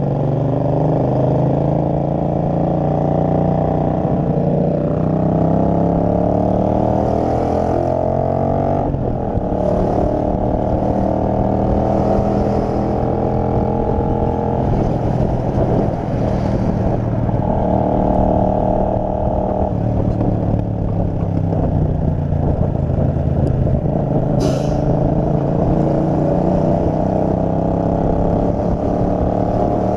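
Kasinski Mirage 250's V-twin engine pulling away and accelerating through the gears, its pitch climbing and dropping back at the shifts about 4 and 9 seconds in, then running at road speed. There is a short sharp click about 24 seconds in.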